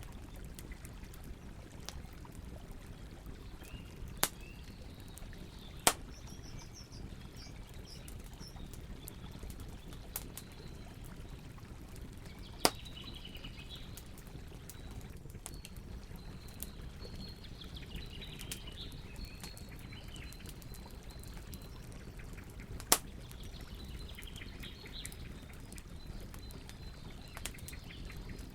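Campfire burning with a steady low noise and scattered crackles, four of them sharp, loud pops. Small birds chirp and twitter in the background.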